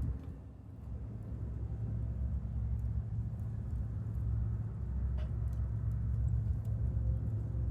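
Low, steady rumble of a distant train, building slightly after the first second, with a few faint crackles from the chiminea fire.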